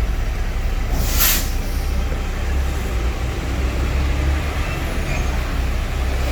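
Bus engine running with a steady low rumble, with a short hiss of compressed air from the air brakes about a second in.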